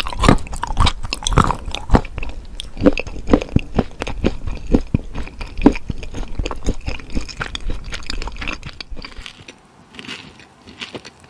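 Close-miked biting and chewing of hard moulded chocolate: a run of sharp, crunchy snaps and wet chewing. About nine seconds in it drops to softer, quieter chewing.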